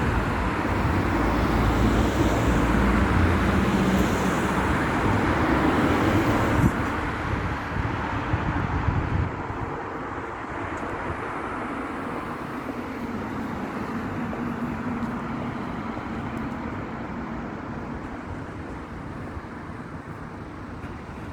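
Jet engines of a four-engine Airbus A380 airliner on departure, a loud steady roar with deep rumble that drops away sharply about seven seconds in, then fades slowly as the aircraft recedes.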